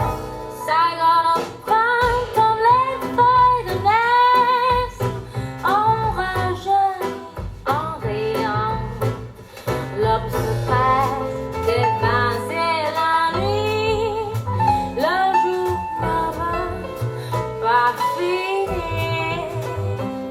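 Song playback through Focal Grande Utopia EM loudspeakers, recorded in the room: a melody line with vibrato over sustained bass and plucked-string accompaniment, between the song's sung verses.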